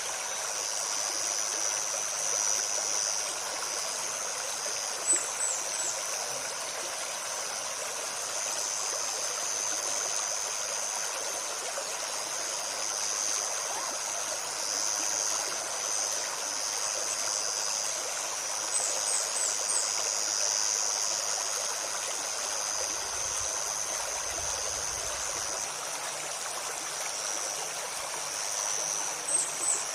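Shallow river flowing and babbling steadily. Short, high chirps from a small bird come through about five seconds in, again in a cluster around nineteen seconds, and near the end.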